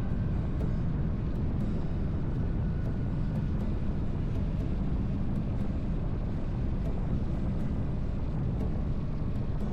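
BMW R1300GS boxer-twin engine and road noise as the motorcycle rides along at a steady speed; an even, low, unbroken sound.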